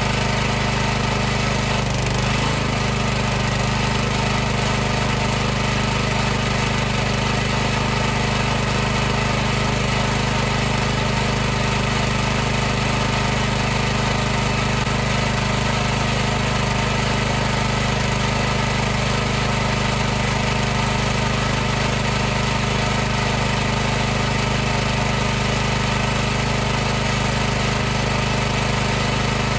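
High-pressure washer running continuously: a steady motor-and-pump hum with a constant hiss over it. The pitch wavers briefly about two seconds in.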